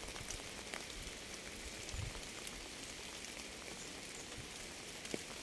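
Steady rain falling, with scattered individual drops ticking close by and a few soft low thuds from heavier drops.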